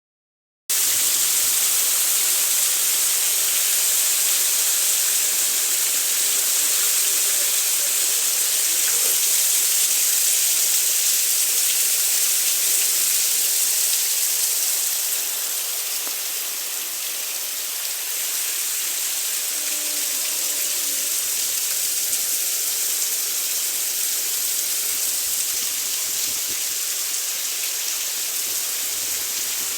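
Heavy rain pouring steadily, a dense even hiss that eases slightly about halfway through.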